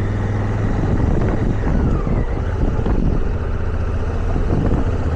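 Motorcycle engine running steadily while riding a rough, washboarded dirt road, with wind noise on the microphone and uneven jolts and rattles from the surface.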